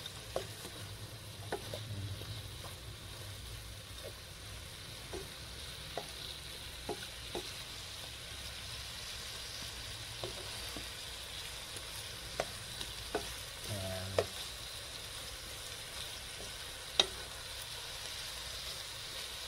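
Boiled pork belly and sliced onions sizzling in a pot with no added oil, cooking in the pork's own fat and juices, while being stirred with a spatula. Scattered sharp clicks and scrapes of the spatula against the pot sound over the steady sizzle, the loudest near the end.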